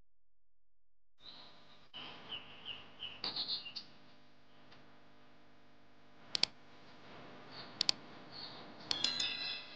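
Faint bird chirps, short and high, with a few sharp clicks about six and eight seconds in and a quick run of chirps near the end.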